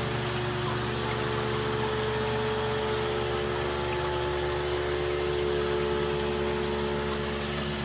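Steady hum of a small motor running without change, with several steady tones over a faint hiss.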